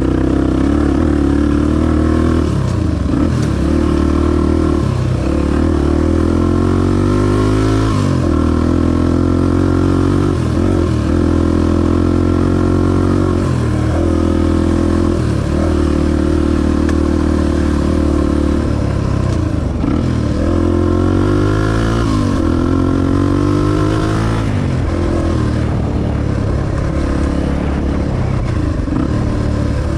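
Honda XR250 dirt bike's single-cylinder four-stroke engine running under way, its pitch rising and falling with the throttle and climbing steeply several times, around 8 and 22 seconds in.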